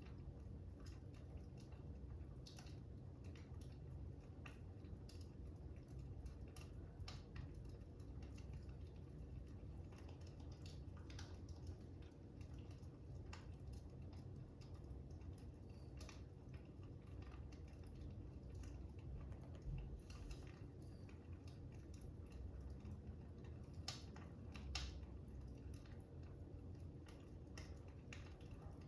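Faint crackling fire: irregular soft pops and snaps over a low steady rumble.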